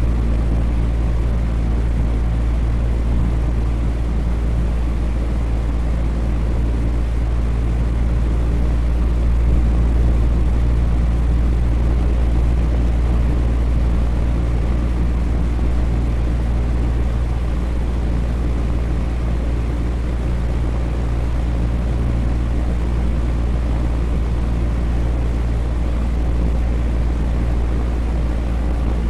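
Electric fan running steadily: a constant low hum from the motor under an even rush of moving air.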